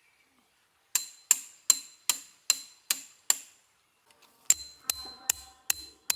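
A hammer striking metal tent pegs, with steady blows about two and a half a second. Seven strikes come first, then a short pause, then a second run whose strikes ring with a clear metallic note.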